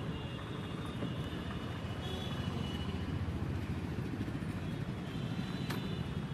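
Mumbai suburban local electric train running along the track, a steady low rumble. A single sharp click near the end.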